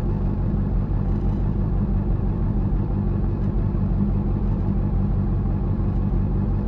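Honda CB400 Super Four's inline-four engine running at a steady speed, a low rumble that holds the same pitch throughout.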